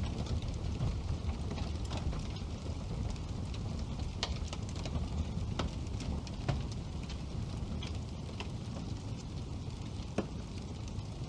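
Wood fire burning in a fireplace: a steady low rumble of flame with scattered sharp crackles and pops from the burning logs, one louder pop near the end.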